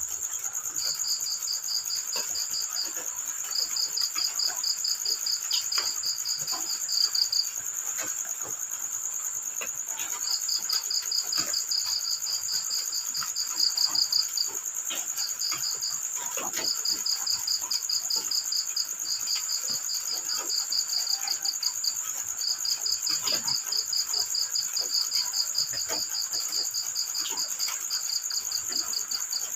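Crickets singing: pulsed trills lasting one to four seconds with short gaps between them, over a continuous high, steady insect drone, with scattered faint ticks.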